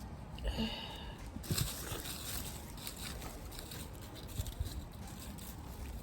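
Digging by hand in a container of dry soil with a small shovel: scraping and rustling of earth, with a few light knocks. Wind rumbles on the microphone throughout.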